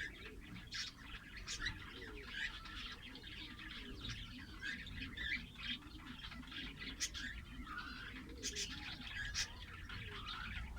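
Lovebirds chirping and chattering: a busy, unbroken stream of short high calls with sharp clicks among them.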